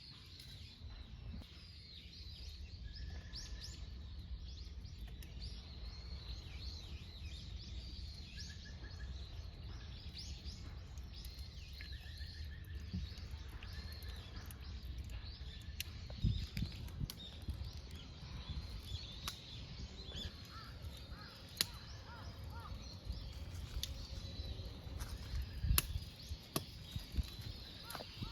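Outdoor ambience of small birds chirping and calling over a steady low rumble, with scattered light clicks and knocks.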